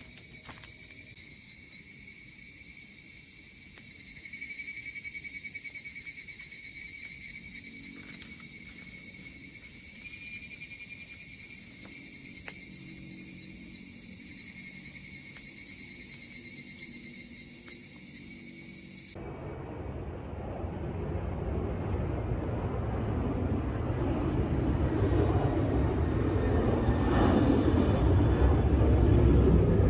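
Insects, likely crickets, shrilling in a steady pulsing chorus. About two thirds of the way in it cuts off abruptly, giving way to a low engine rumble that grows steadily louder.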